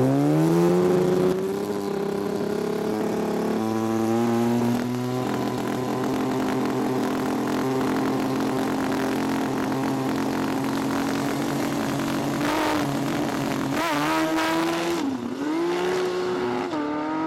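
Drag-racing motorcycle engine revving up, then held at a steady high rpm at the start line. Near the end it launches, the revs climbing and dropping several times in quick succession as it shifts gears and pulls away.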